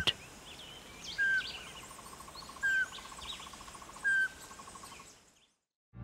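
Bird calls: a clear whistled note repeated three times, about a second and a half apart, over scattered higher chirps and a faint fast pulsing trill. It fades out near the end.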